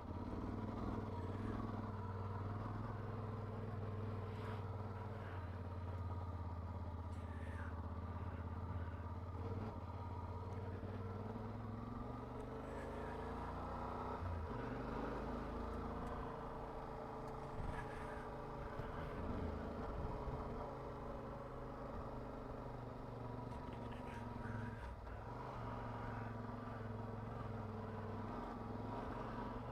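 Motorcycle engine running steadily while the bike is ridden, its pitch rising and falling a few times around the middle as the throttle changes.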